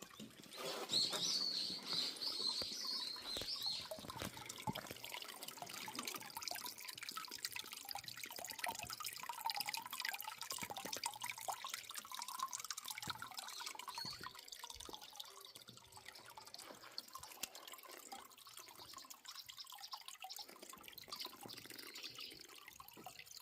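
Water dripping and trickling, a dense patter of drops that is loudest in the first few seconds.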